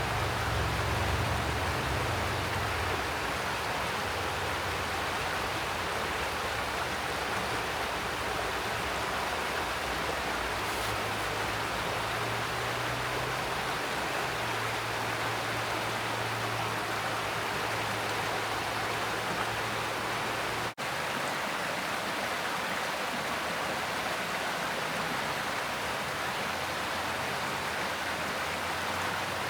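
Mountain stream rushing steadily over rocks, a constant even wash of water, broken by a split-second dropout about two-thirds of the way through.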